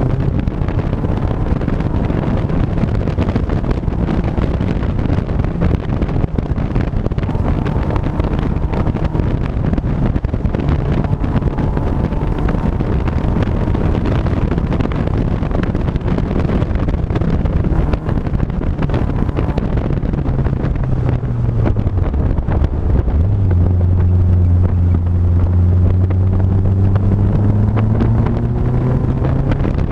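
A vehicle's engine running while driving, with wind buffeting the microphone. Its pitch holds fairly steady, drops about two-thirds of the way through, then climbs steadily as it accelerates.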